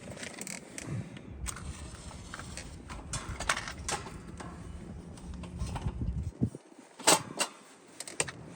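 Scattered clicks, knocks and scrapes of objects being handled, with one sharp click about seven seconds in.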